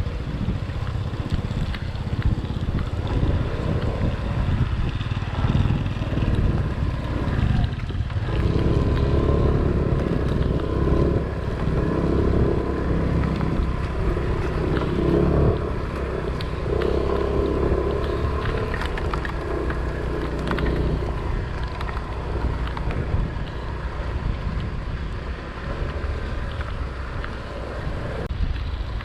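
Wind buffeting the microphone: a heavy, steady low rumble, gustier in the middle stretch.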